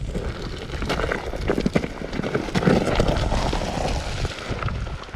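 Dirt bike crash heard from a helmet camera: a jumble of knocks, scraping and rustling as rider and bike tumble down a rocky, brushy hillside.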